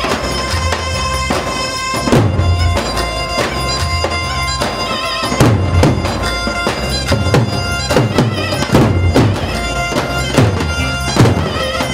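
Turkish folk dance music of the misfir kind: a reedy, nasal wind melody held over a steady drum beat.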